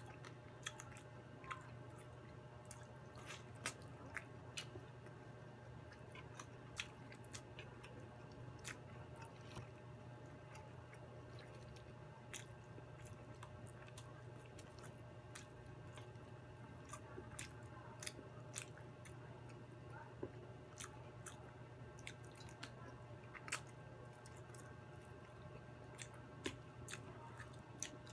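Close-up chewing and biting of fried chicken: irregular wet mouth clicks and smacks, some sharper than others. A steady low hum runs underneath.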